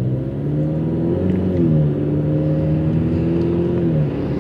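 Ford Mustang EcoBoost's 2.3-litre turbo four-cylinder engine accelerating. Its pitch rises, drops sharply near two seconds in as it shifts up, then holds and falls again near the end.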